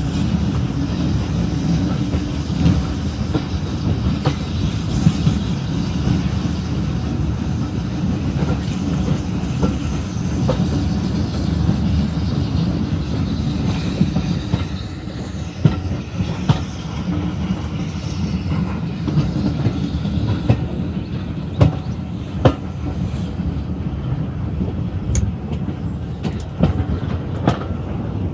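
Steam-hauled heritage train's coaches running, heard from a carriage window: a steady rumble of wheels on the track, with sharp clicks and knocks from the wheels passing over the rails, more frequent from about halfway through.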